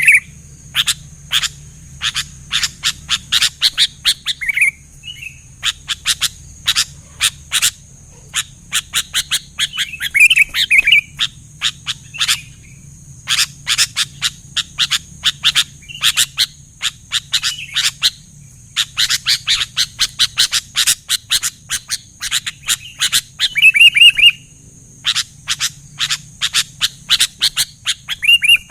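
Sooty-headed bulbul (kutilang) singing vigorously: fast runs of sharp chirps broken by short bubbly phrases, in bursts with brief pauses between them.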